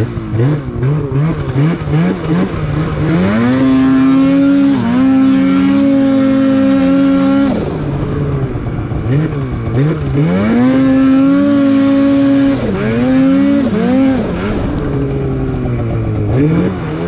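Turbocharged Polaris Patriot Boost two-stroke snowmobile engine with an aftermarket muffler. It takes a few quick throttle blips, then makes two wide-open pulls; on each pull the pitch rises and holds steady and high for about three seconds before dropping off. Engine speed peaks around 8,300 rpm, which the rider calls a little low.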